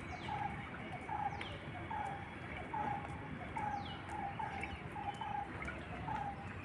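Birds calling: a run of short, low notes, one or two a second, with three high whistles sweeping downward in pitch.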